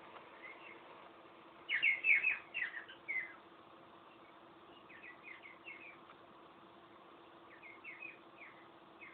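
Cockatiel chirping in short runs of quick notes: a louder run about two seconds in, then two fainter runs later.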